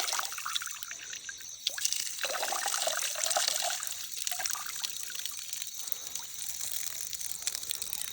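Water trickling and dripping with small splashes, as a fishing net is worked and lifted in a shallow creek. The splashing is strongest a couple of seconds in.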